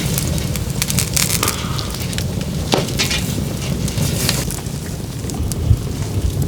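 A fire crackling, with scattered sharp pops over a low steady rumble.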